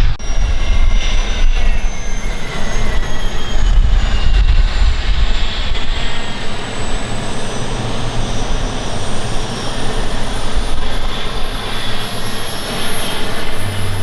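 Small turbine jet engines of scale RC model T-33 jets whining, their high-pitched tones gliding slowly lower over a steady rush of engine noise.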